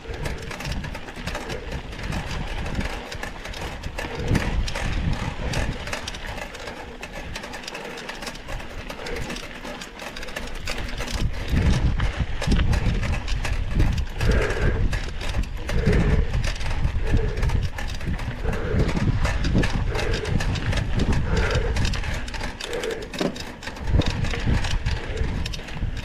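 Mountain bike ridden over a rough dirt trail: constant rattling and clicking of the bike with heavy wind rumble on the helmet camera, louder and rougher about halfway through. In the second half a faint sound repeats about once a second.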